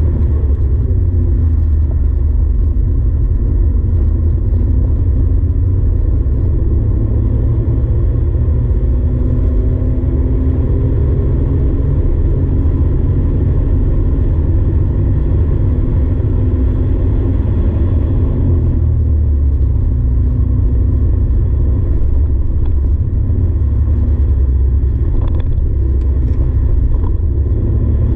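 Porsche 964's air-cooled flat-six engine running hard on track, heard from inside the cabin, with a heavy low rumble and road noise. The revs rise and fall repeatedly.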